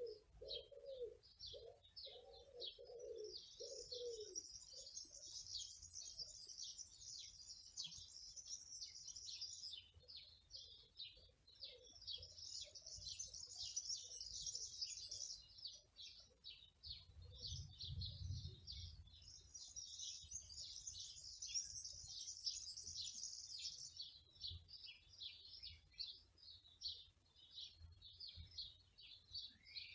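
Small birds singing: a steady run of short high chirps, with three fuller song phrases laid over them. A lower repeated call sounds for the first four seconds, and a brief low rumble comes about eighteen seconds in.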